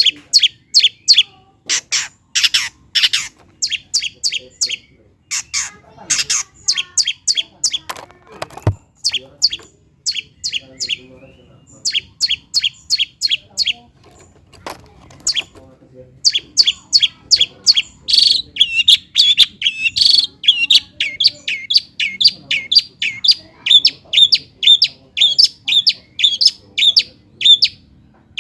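Long-tailed shrike (cendet) calling in quick series of short, high notes, at first in clusters with brief gaps, then from about halfway in a steady run of about three notes a second.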